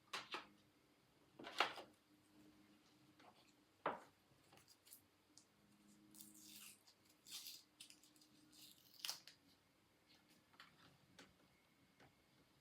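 Quiet, scattered handling sounds of painting on paper: a few sharp taps and clicks, the loudest about a second and a half in and again near four seconds, with short scratchy strokes in between.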